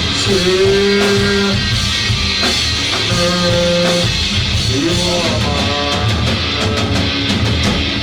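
Live rock band playing loudly: drum kit and electric guitar, with long held notes over the beat.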